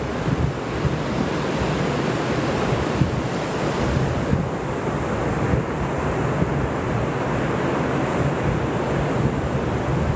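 Steady ocean surf on a beach, with wind buffeting the microphone.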